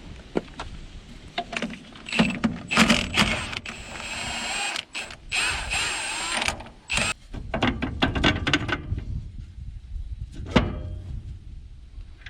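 Metal clicking, rattling and knocking of hand tools and parts being worked on a truck's front wheel hub and drum brake assembly, with one sharp knock near the end.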